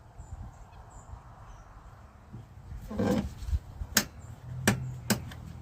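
Sharp clicks and a brief scrape of metal parts being handled while a joystick control-cable adjuster is set: a scrape about three seconds in, then three sharp clicks in quick succession near the end, over a low background rumble.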